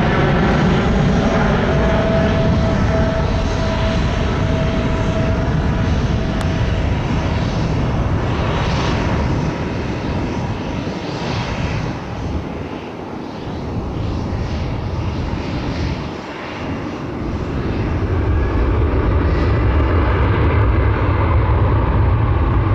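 Boeing 777-200ER's twin GE90 jet engines at takeoff power, a loud steady roar with a few whining tones in the first several seconds. The roar dips briefly twice in the middle, then a heavier low rumble builds toward the end.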